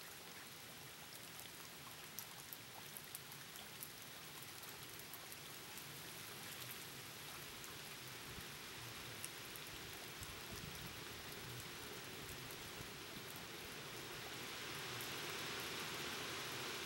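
Hurricane Sandy's wind and rain: a steady hiss of rain with scattered drops tapping, growing louder as a gust builds about three-quarters of the way in.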